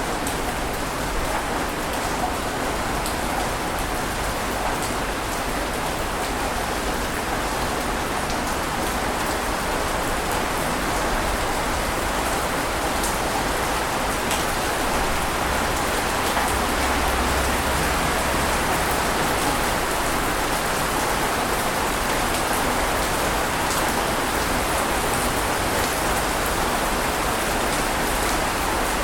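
Ocean surf washing on a beach: a dense, continuous hiss of breaking water that swells gently over the middle stretch and eases a little near the end.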